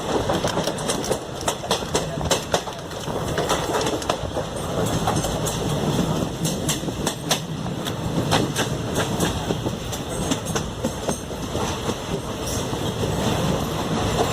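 Koyna Express passenger train running along the track: a steady rumble, with the wheels clicking and clattering over the rail joints.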